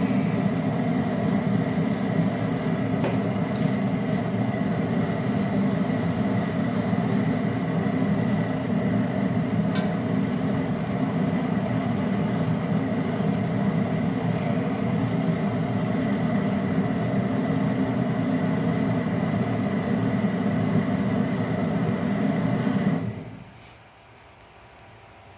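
A small electric motor running with a steady low hum, then switched off suddenly near the end.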